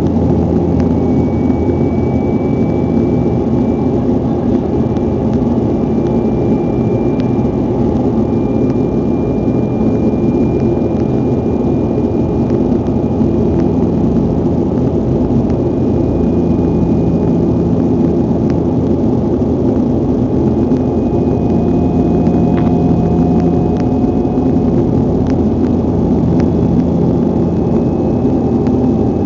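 Steady engine noise of a Bombardier regional airliner heard from inside the passenger cabin during the takeoff climb, a dense even drone with a faint high whine above it.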